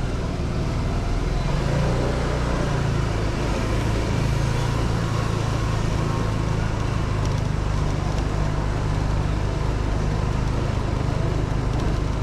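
Honda 125 cc motorcycle engine running at a steady speed while riding, its low engine note under a constant rushing noise.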